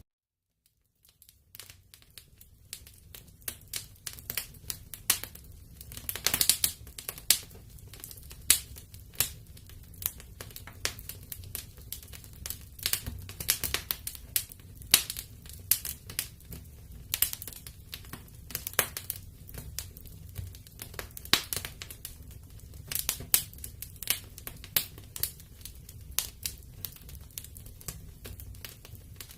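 Wood fire crackling in a fireplace: irregular sharp snaps and pops, several a second, over a low steady rumble of the flames. The sound drops out completely for about a second and a half at the start, then fades back in.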